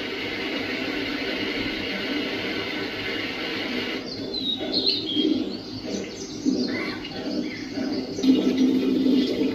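A steady rush of noise, then an abrupt change about four seconds in to a few short bird chirps, followed by a low steady hum near the end.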